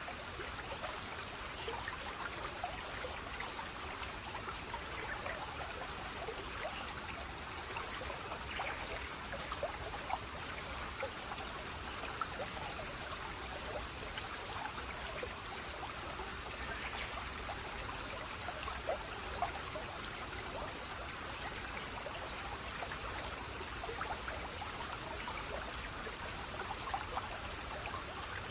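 Running water of a small stream, trickling and splashing steadily, with many small droplet splashes scattered through it.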